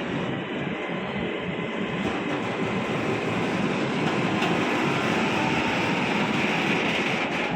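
A train running through a railway station: a steady noise of wheels on the rails, growing a little louder about two seconds in.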